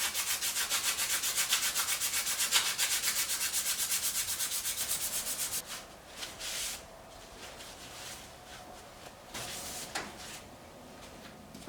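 Rapid back-and-forth rubbing on a tractor's gear-case shaft as it is cleaned up, about seven strokes a second, stopping about five and a half seconds in, followed by a few softer, scattered rubs.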